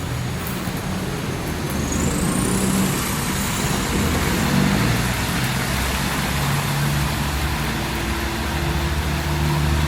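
Road traffic in heavy rain: vehicle engines running with a low hum that grows stronger in the second half, under a steady wash of rain and wet-road noise.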